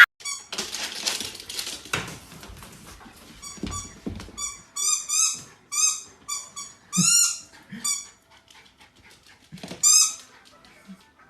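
A dog giving short, high-pitched squeaky yips in quick runs, with a few separate bursts through the middle and another near the end.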